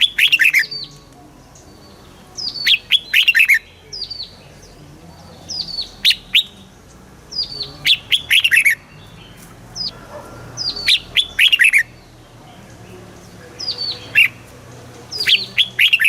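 Red-whiskered bulbul singing: short phrases of quick, falling whistled notes with sharp clicks among them, repeated every two seconds or so.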